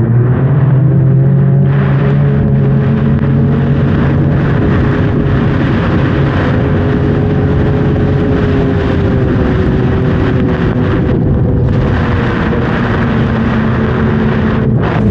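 Snowmobile engine running hard at trail speed: the pitch of its drone climbs over the first couple of seconds, then holds steady and eases off slightly near the end. Wind rushes and buffets against the microphone throughout.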